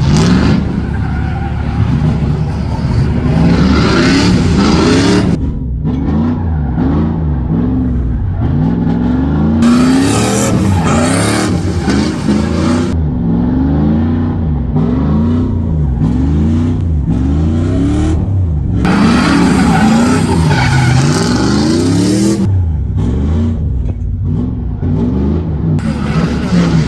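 BMW E46 drift car's engine revving up and down over and over as it drifts, with the tyres squealing in several long stretches.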